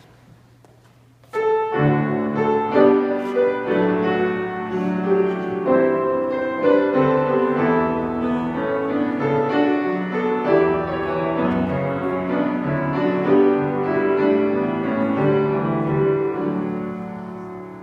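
Piano playing an introduction to a responsorial psalm refrain: chords and a melody start suddenly about a second in and go on steadily, fading near the end.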